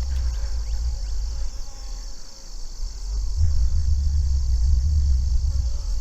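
A steady, high-pitched chorus of summer insects keeps going throughout, with a low rumble underneath that gets louder about halfway through.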